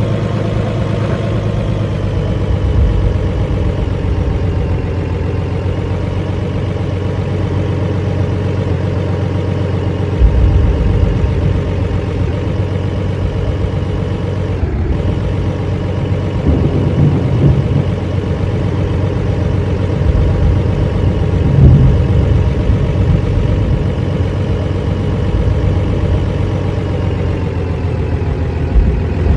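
A motor vehicle's engine running steadily, with a low drone that grows louder about ten seconds in.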